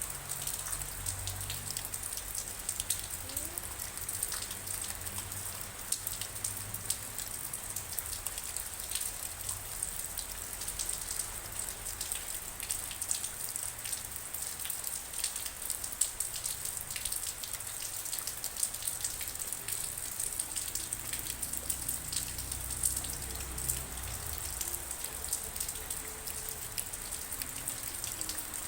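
Steady rain falling, with many separate drops striking a surface as sharp little ticks over an even hiss.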